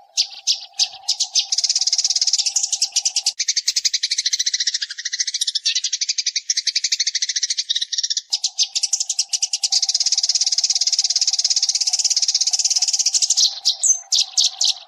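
Eurasian tree sparrows chirping in a fast, dense chatter of high chirps that runs without a break. A low steady hum sits under it for the first few seconds, drops out for a while, and returns at about eight seconds.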